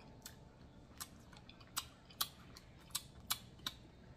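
Close-up sounds of a person eating fresh fruit: chewing, with about seven short, sharp clicks at uneven intervals.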